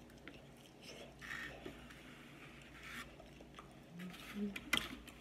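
A person chewing and smacking on fried chicken wings and fries, in short bursts, with a few sharp clicks near the end.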